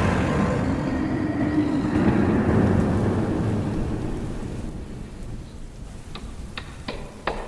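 Homemade dragon sound effect: a deep, rough, rumbling growl that fades away over about four seconds, followed by a few sharp clicks near the end.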